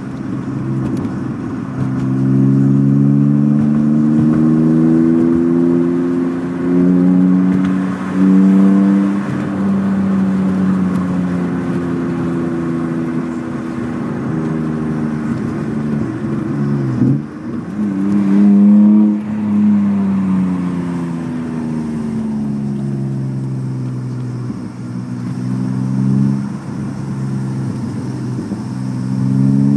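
BMW E36 M3 straight-six running through a UUC exhaust, the exhaust note rising and falling in pitch as engine speed changes. About halfway through the pitch drops sharply and picks back up.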